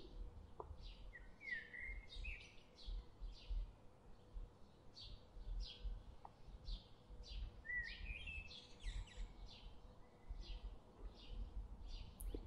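Faint birdsong: a bird repeats short high chirps about every half second, with a few lower sliding chirps mixed in, over a low background rumble.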